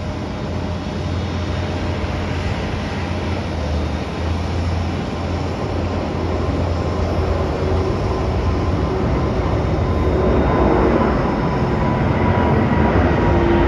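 Jet airliner engines running, a steady rumble that grows a little louder toward the end, with a faint steady whine appearing.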